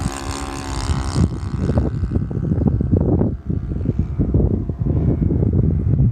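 Cessna 182's engine and propeller droning steadily for about the first second, then largely covered by heavy wind buffeting on the microphone.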